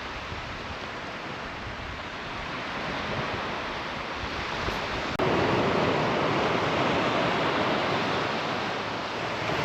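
Waves washing on a beach, a steady rush of noise with wind on the microphone; it becomes abruptly louder about five seconds in.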